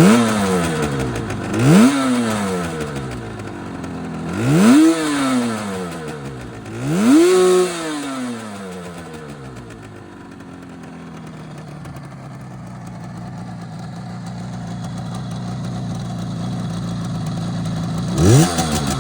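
Restored 1977 Suzuki GT125 two-stroke twin engine being revved in four quick throttle blips, each rising sharply in pitch and falling back, then idling steadily for about ten seconds before another blip near the end.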